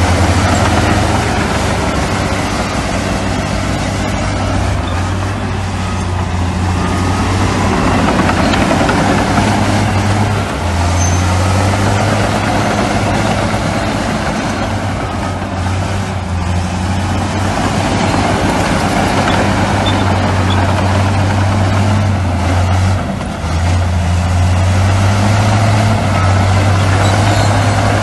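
Heavy diesel engines of earthmoving machinery, bulldozers and dump trucks, running steadily as a deep drone that dips briefly twice.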